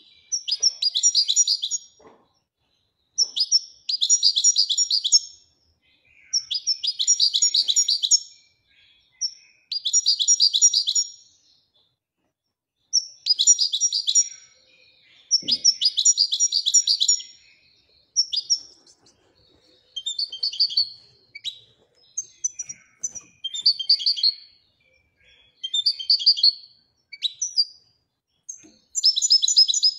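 Moroccan goldfinch singing in repeated phrases of rapid, twittering trills, each a second or two long with short pauses between. This is the song style its keepers call 'widaniya'.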